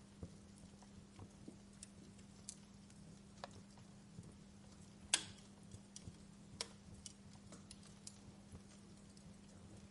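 Wood fire crackling in a fireplace: faint, irregular snaps and pops of burning firewood, the loudest pop about halfway through, over a faint steady low hum.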